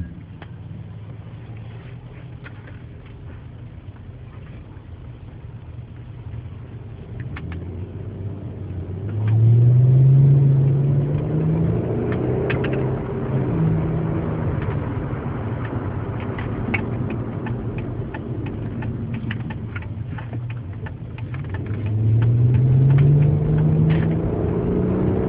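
2001 Audi S4's 2.7-litre twin-turbo V6 running while the car is driven. The engine pulls up twice, its pitch climbing each time: once about a third of the way in and again near the end.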